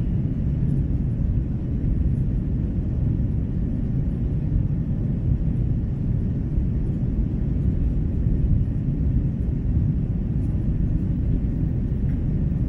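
Steady low rumble of an airliner cabin in flight, engine and air noise holding even throughout.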